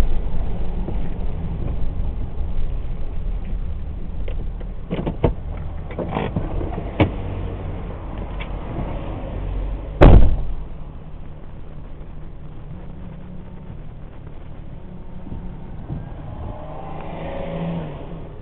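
Car engine running at low revs and easing off, with a few sharp clicks, then a single loud thump about ten seconds in, after which a quieter steady hum remains.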